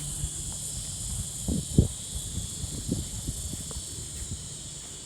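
Outdoor beach ambience: a steady high hiss over a low rumble, with a few soft thumps, the loudest a little under two seconds in.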